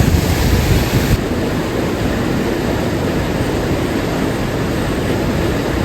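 Steady rushing of a waterfall, a dense, even noise with a heavy low rumble; the higher hiss drops away about a second in.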